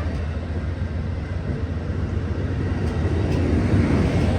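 Amtrak passenger train with ALC-42 and P42 diesel-electric locomotives pulling away: a steady low rumble that grows a little louder near the end.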